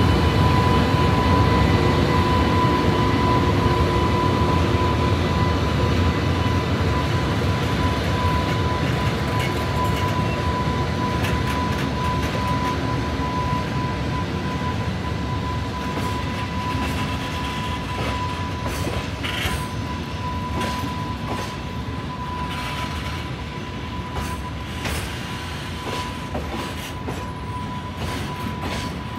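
JR Freight EH500 electric locomotive pulling a freight train away, its cooling blowers giving a steady high whine over a low rumble, both fading as it moves off. From about ten seconds in, the container wagons' wheels click sharply over rail joints as they roll past.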